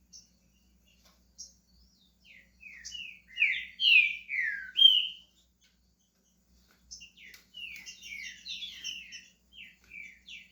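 Green-winged saltator (trinca-ferro) singing: a loud phrase of down-slurred whistled notes about three seconds in, then after a short pause a second, busier phrase from about seven seconds in, with scattered short call notes before them.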